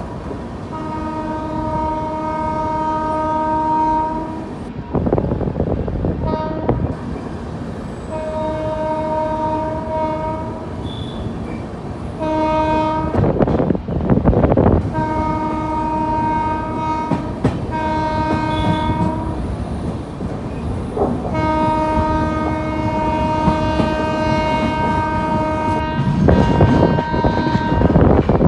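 Train horn sounding in a series of about seven long, steady blasts, over the rumble and clatter of a moving train. A loud rushing surge comes about halfway through and another near the end.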